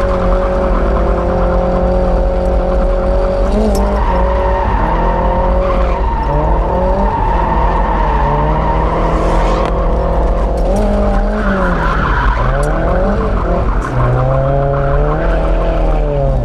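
Drift car's engine heard from inside the cabin, held at high revs and then dipping and swinging up and down as the throttle is worked through a drift, with tyres squealing under it.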